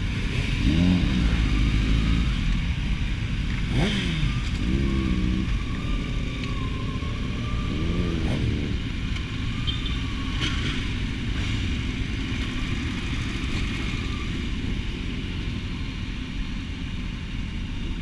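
Several sport-bike engines idling together, with a few short revs, each rising and falling in pitch: about a second in, around four to five seconds in, and again about eight seconds in. After that a steady low idle rumble carries on.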